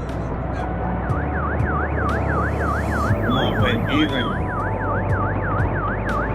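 Car alarm sounding with a rapid up-and-down wail, about four sweeps a second, starting about a second in: the alarm of a parked car set off as it is being towed.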